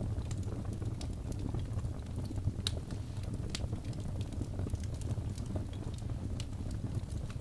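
Crackling fire: a steady low rumble with irregular sharp pops and snaps scattered throughout.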